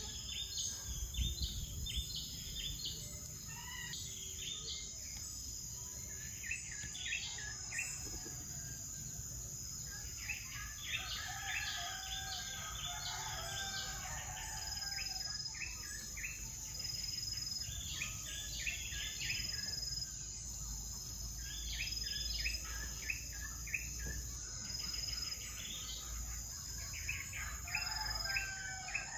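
A steady high-pitched insect drone runs throughout. Over it come repeated bouts of short, rapid bird chirps, several a second, each bout lasting a couple of seconds.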